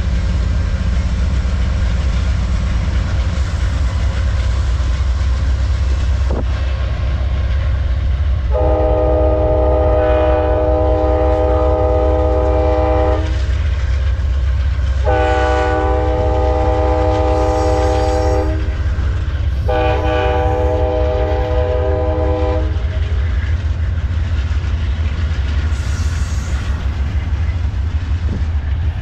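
Amtrak passenger locomotive's multi-chime air horn sounding three long blasts, the first the longest, over the steady low rumble and clatter of the moving train.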